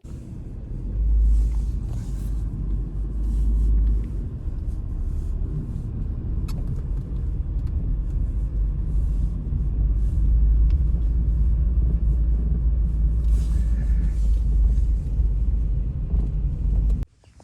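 Strong blizzard wind buffeting the microphone: a loud, low rumble that swells and eases, then cuts off suddenly near the end.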